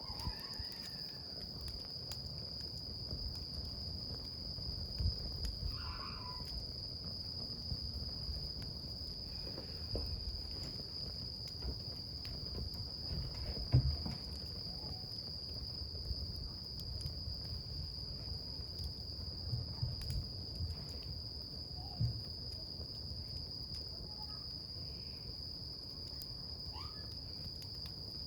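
Wood campfire crackling, with scattered sharp pops, the loudest about halfway through and again near the end. A steady high insect trill runs on behind it without a break.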